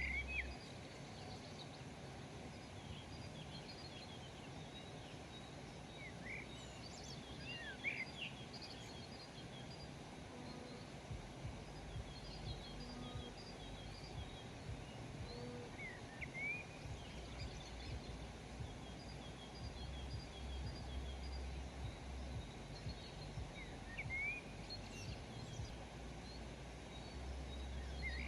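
Wild birds calling outdoors: clusters of short sweeping chirps every several seconds and quick series of high notes, over a steady faint background noise. A low rumble comes and goes underneath.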